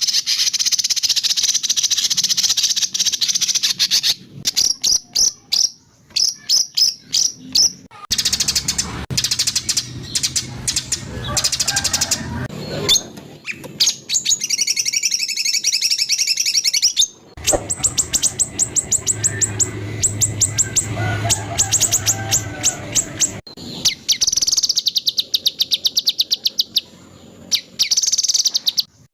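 Spliced recordings of songbird song from a masteran track for training white-rumped shamas: dense high trills alternate with bursts of rapid, sharply repeated 'shot' notes, and the song changes abruptly every few seconds.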